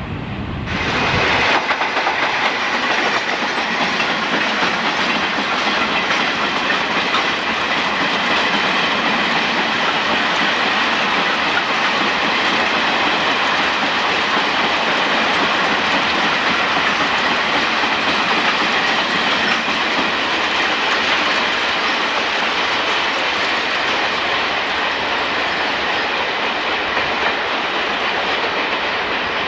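A Japanese National Railways train passing close at speed: a loud, steady rush of wheels on rails that sets in suddenly about a second in and holds without a break.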